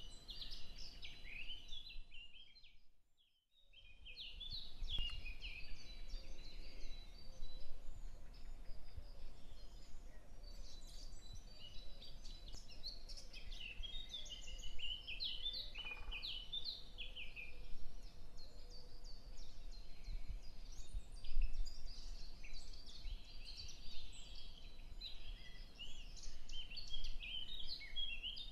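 Birds chirping and singing, a dense chorus of short high calls, fading out briefly about three seconds in and then back in.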